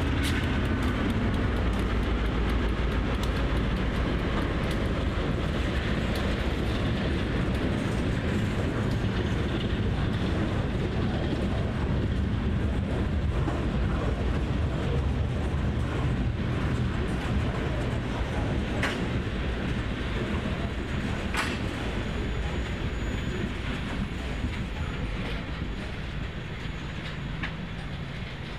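Diesel-hauled freight train rolling past, with a steady low engine rumble and wheels clicking over the rail joints. A couple of sharp clicks come about two-thirds of the way in, and the sound eases off near the end as the train moves away.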